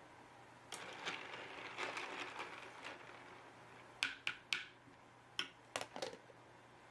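Microfiber cloth rubbing over a mechanical keyboard's bare switches, pushed between them with a plastic switch puller. It starts as a soft rubbing hiss, then gives way to several sharp plastic clicks and taps.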